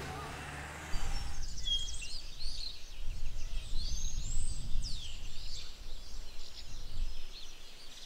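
Several small birds chirping and whistling in quick, rising and falling notes over a low steady outdoor background noise, starting about a second in.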